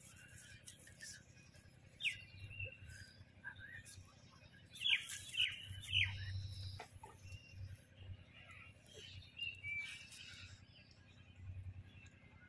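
Small birds chirping: short, sharp calls that sweep downward in pitch, one about two seconds in, a quick run of three around five seconds in, and a few more near the end, over a faint low rumble.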